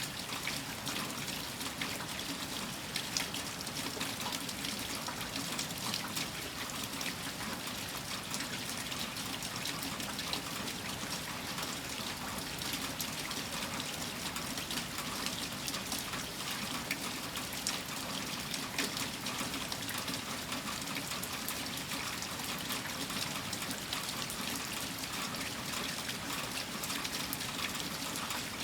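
Steady storm rain falling, a constant dense hiss of drops that never lets up.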